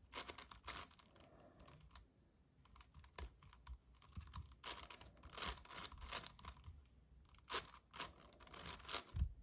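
A magnetic 7x7 Rubik's cube being turned by hand: irregular runs of faint plastic clicks as its layers snap into place.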